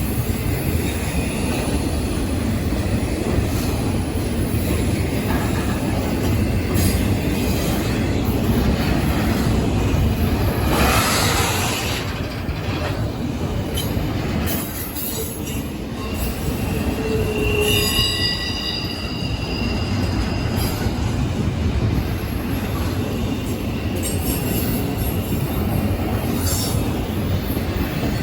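A train rolling past: a steady rumble of wheels on the rails, with a burst of noise about a third of the way in and short high wheel squeals about two-thirds of the way through.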